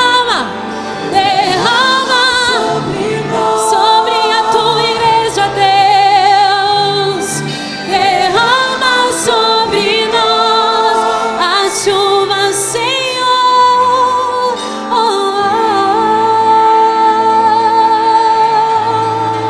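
Live gospel worship music: singers holding long lines with vibrato over a band, with a steady bass and regular sharp high accents.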